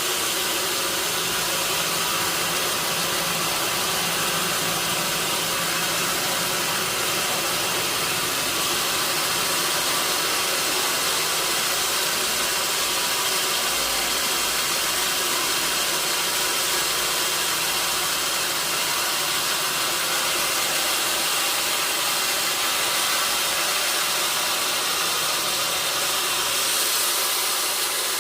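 Sawmill machinery running, a steady, even rushing noise with no breaks or pauses.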